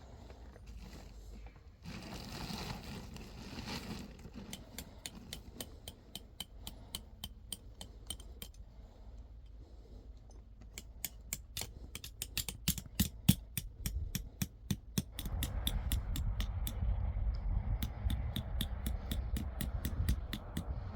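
Runs of quick, evenly spaced light clicks, several a second, with a steady rustling scrape underneath in the second half.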